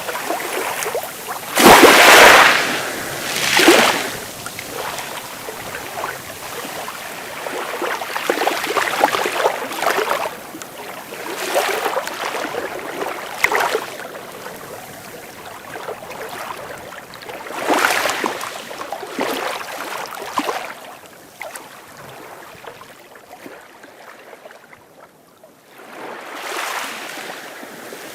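Sea waves washing in and breaking, in irregular surges a few seconds apart. The loudest surges come about two seconds in and again near eighteen seconds, with a quieter lull shortly before the end.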